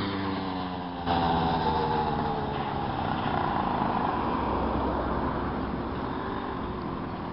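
Small single-cylinder mini bike engine running as the bike is ridden. It jumps louder about a second in, then slowly fades as it moves away.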